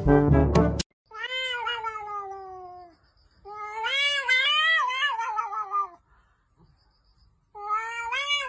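A cat meowing in long, drawn-out calls: two long meows that sag downward in pitch, and a third starting near the end. Brass music cuts off just under a second in.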